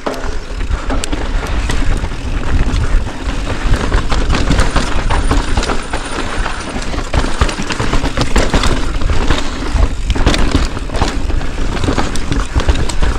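Mountain bike riding fast down a dirt trail: tyres rolling over the ground and the bike clattering over rough spots in frequent sharp knocks, with wind rushing over the microphone.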